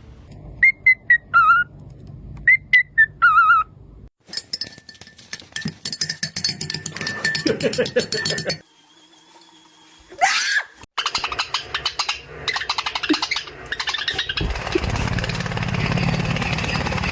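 Parrot whistling: two short phrases of wavering whistled notes in the first few seconds, followed by a long stretch of mixed, busier sounds.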